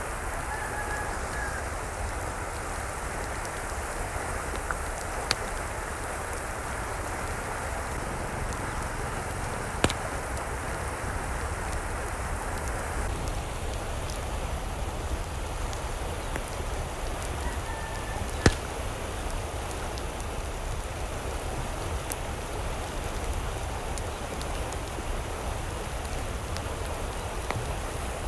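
Steady wash of water noise, with a few sharp ticks, the loudest about 18 seconds in.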